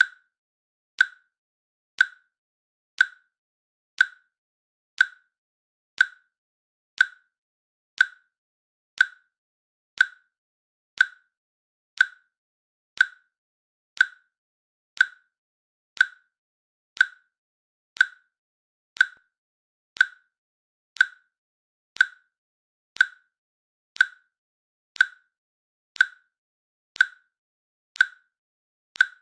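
Countdown timer's click sound, one short, sharp click every second at a perfectly even pace, marking the seconds as the timer runs down.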